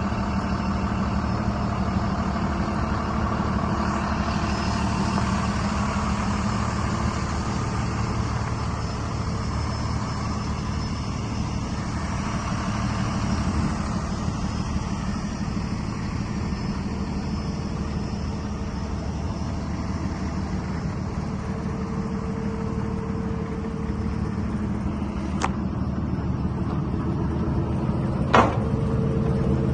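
Diesel lorry engine running steadily, with two sharp clicks near the end.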